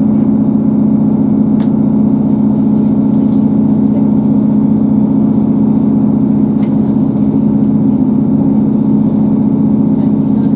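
Inside a Class 158 diesel multiple unit running at speed: a steady, loud drone from the underfloor diesel engine and running gear, with a few faint clicks and rattles.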